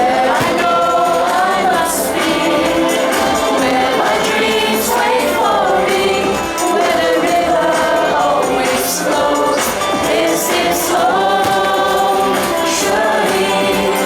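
Amplified music with a large choir singing, with short bright hissing crashes every few seconds.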